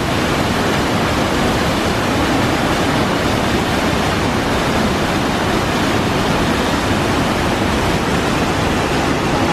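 Banias waterfall: a large waterfall's water falling with a steady, loud rushing noise.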